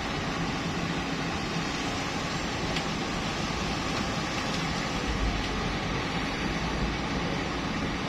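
Steady rushing noise of a river running with lahar, with a truck's engine running under it. A deeper rumble grows about five seconds in.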